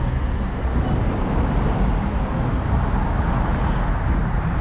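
Steady low outdoor rumble of street and vehicle background noise, with no distinct events.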